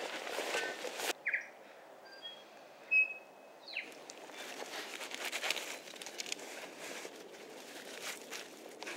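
Brief rustling, then short bird chirps and a whistle, the loudest a sharp chirp about three seconds in. From about four seconds on, rustling and scraping of leaf litter and clothing as a person kneels and reaches into a burrow.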